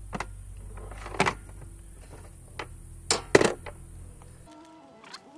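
Hand tools and bolts clinking against metal: several sharp clicks and clinks over the first three and a half seconds while the starter-motor bracket bolts are worked loose. About four and a half seconds in, the background hum drops out and a held music chord comes in.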